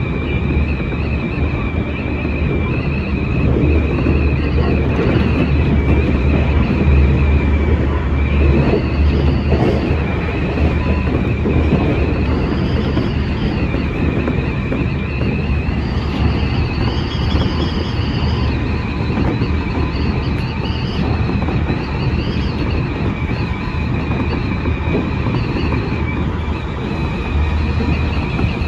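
Semboku 5000 series electric train running at speed, heard from inside behind the cab: a steady low rumble of the wheels on the rails with a high whine that rises and falls several times.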